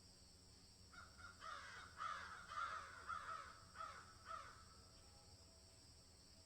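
A bird calling: a quick run of about seven calls, each dropping in pitch, lasting a few seconds, over a steady faint high hiss.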